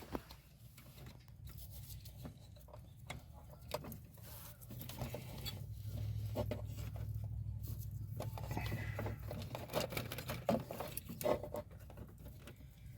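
Faint scattered clicks and rustling from hands working the throttle position sensor's plastic wiring connector at a truck's accelerator pedal. A low hum swells in the middle and fades again.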